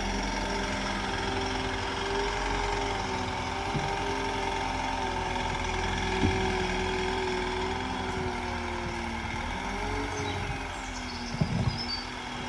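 An engine running steadily at an even speed, with a few short knocks.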